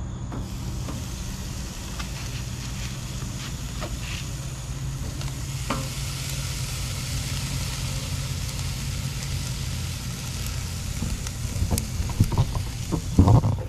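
Steaks sizzling on a grill: a steady frying hiss over a low hum, with a few short knocks and louder clatter near the end.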